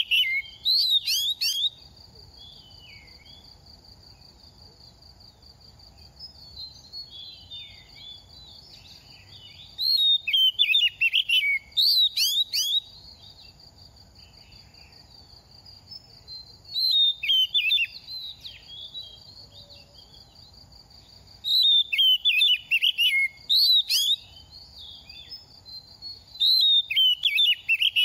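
Oriental magpie-robin singing in loud bouts of fast, varied whistled phrases, five times, with quieter gaps of soft calls between. A steady high-pitched whine runs underneath.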